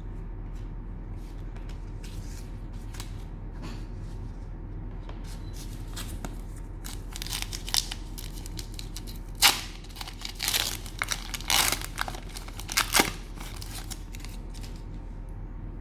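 Cellophane wrapper of a trading card pack being torn open and crinkled, in a run of sharp crackles through the second half, over a steady low hum.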